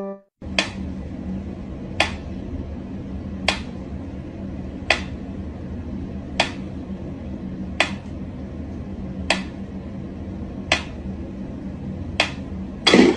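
Sharp clicks or taps about once every one and a half seconds, nine in a row, over a steady low hum, with a louder clatter near the end.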